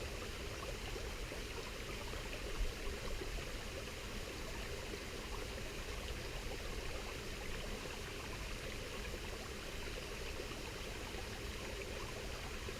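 A river flowing steadily over rocks, a continuous rushing of water, with a few faint knocks about two and a half to three seconds in.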